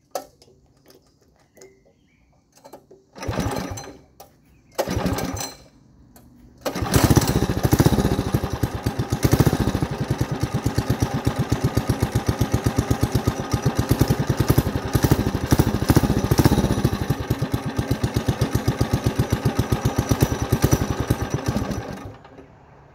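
Motovox MBX10 mini bike's small four-stroke engine, on choke and not run for about a week, being pull-started: two brief attempts, then it catches and runs with a fast, even pulsing before it cuts out near the end.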